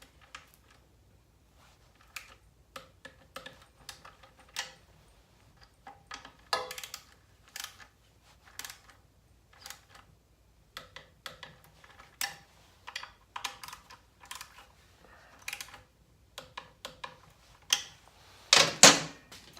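Torque wrench and ratchet clicking on the Norton Commando's alternator stator stud nuts as they are tightened to 15 foot-pounds: scattered sharp clicks and short runs of ratcheting, with a louder burst near the end.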